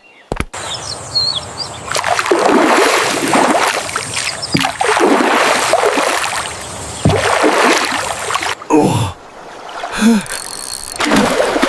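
Oars splashing in lake water as a rowboat is rowed, the splashes coming in swells about every two seconds.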